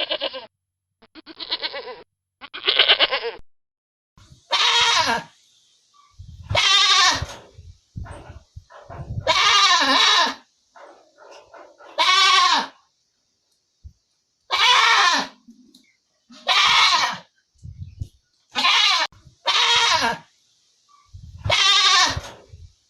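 Goats bleating: about a dozen separate calls, each under a second long, with a wavering pitch.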